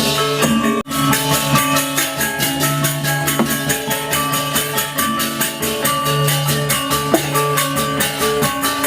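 Balinese gamelan playing: ringing metal keyed instruments and gongs over a steady, busy beat of drums and cymbals. The sound drops out briefly just under a second in.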